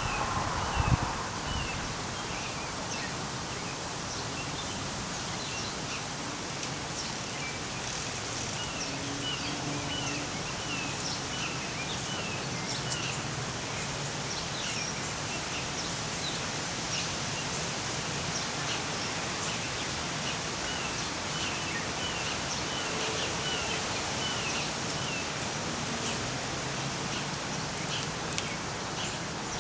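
Small birds chirping: many short, quick high notes repeating over a steady outdoor background hiss.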